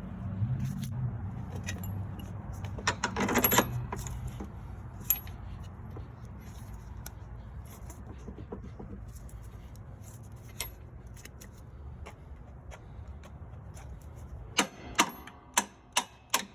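Metal hand tools and parts clinking and clattering during shock absorber work on a heavy truck, over a low steady hum. There is a louder clatter about three seconds in, and near the end a quick run of about eight sharp metallic taps.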